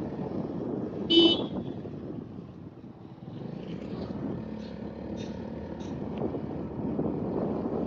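Steady road-vehicle noise, with a short horn toot about a second in.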